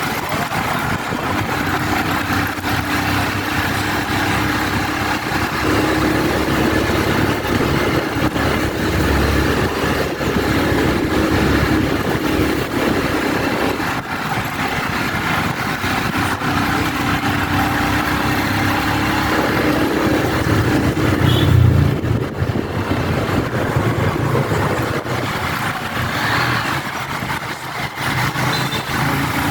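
Motorbike engine running under way, with road and wind noise; its note holds steady for stretches and shifts several times as the speed changes. A louder, deeper surge comes about two-thirds of the way through.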